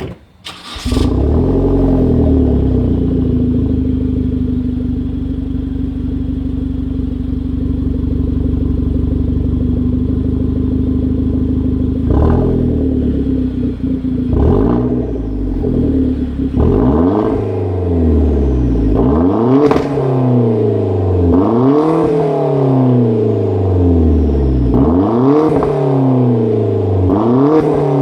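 Hyundai Genesis Coupe 2.0T's turbocharged four-cylinder running through a 3-inch downpipe, test pipe and catback exhaust: it runs steadily at first, then, from about twelve seconds in, is blipped over and over, one quick rev every second or two.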